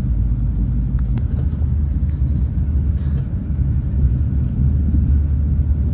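Steady low rumble of a Renfe class 130 (Talgo 250) high-speed train running at speed, heard inside the passenger coach, with a couple of faint clicks about a second in.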